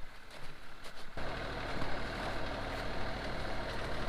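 Branson 3015H tractor's three-cylinder diesel engine running steadily, coming in abruptly about a second in after a quieter start with a few clicks.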